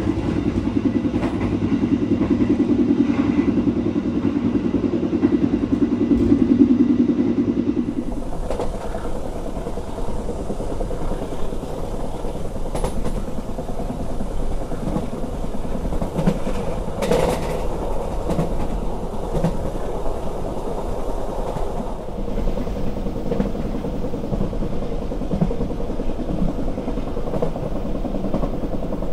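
Stainless-steel passenger train coaches running at speed. For about the first eight seconds there is a loud, low rumble in the gangway between two coaches. From about eight seconds in, heard from beside the moving coach, there is steady wheel-on-rail noise with occasional clicks over the rail joints.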